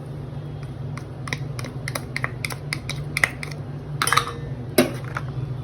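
A spoon clicking and scraping against a bowl as ginger-garlic paste is scooped in, a quick run of light clicks followed by two louder clinks about four and five seconds in. A steady low hum runs underneath.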